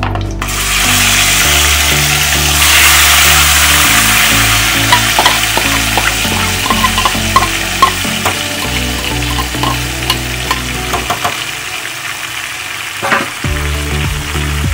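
Food sizzling in hot oil in a pan, with a spoon clicking and scraping against the pan as it is stirred, mostly from about five to ten seconds in.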